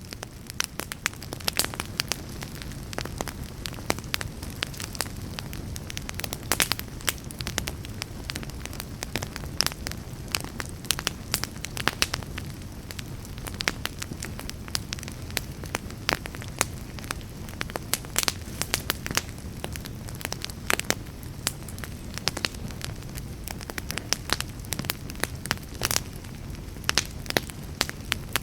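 Wood fire in a fireplace crackling, with frequent sharp, irregular pops and snaps over a steady low rumble of the flames.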